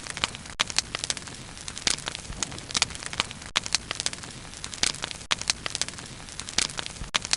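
Wood fire burning and crackling, with frequent irregular sharp pops and snaps over a steady soft rush of flame.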